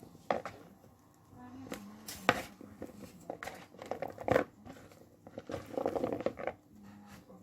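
Boiled chickpeas and potato pieces being mixed in a bowl: soft wet squelching and rustling in short spells, with a few sharp knocks of the utensil against the bowl.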